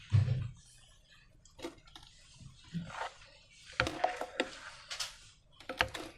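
Slime being handled and worked by hand: a low thump right at the start, then irregular wet, sticky clicks and crackles, busiest about two-thirds of the way through and again near the end.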